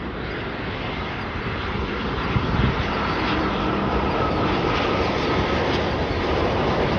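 Jet engines of a Boeing 787-8 Dreamliner on final approach, a steady rushing roar growing louder as the airliner comes nearer, with a faint whine in it.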